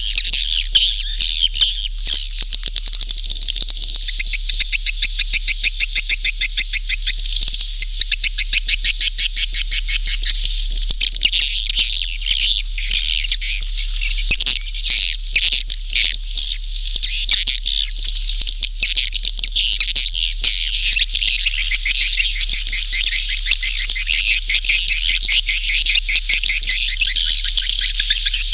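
Swiftlet calls: a dense, continuous chatter of many rapid high twitters and trills, the kind of recorded swiftlet sound played to lure swiftlets into a nesting house.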